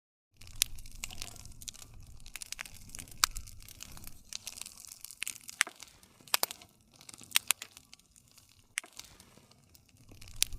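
Wood campfire crackling, with sharp pops and snaps scattered irregularly over a low rumble of the flames. The sound cuts in abruptly just after the start.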